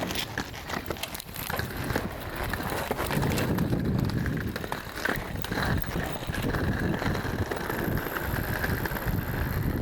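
Wheels rolling over pavement, a steady rumble with scattered clicks and knocks.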